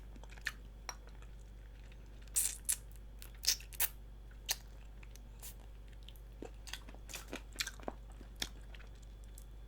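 Faint, close-miked eating sounds: chewing with wet mouth clicks and smacks, in small scattered groups.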